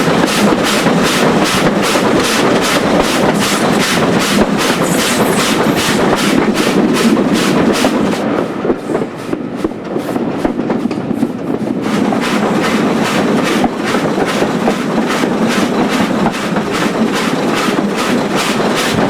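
2-8-0 tank steam locomotive No. 4277 working a train, its exhaust beating evenly at about two to three beats a second, with the running noise of the coaches on the rails. The sound softens and loses its top end for a few seconds in the middle, then picks up again.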